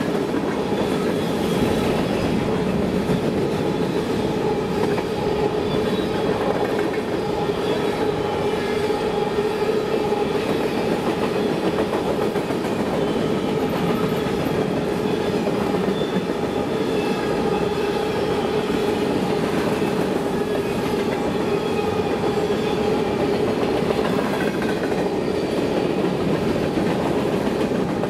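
Freight train cars, a boxcar and a long string of covered hopper cars, rolling steadily past on steel rails: a continuous rumble of wheels on track with some clickety-clack and steady ringing tones over it.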